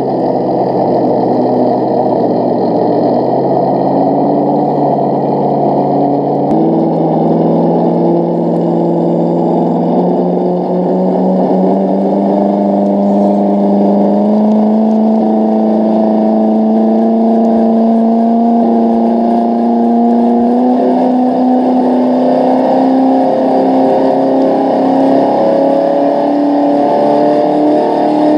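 ESS-One engine sound module on an RC scale trail truck, playing a simulated truck engine that follows the throttle. Its pitch steps up about six seconds in, then climbs slowly and steadily as the throttle is held on.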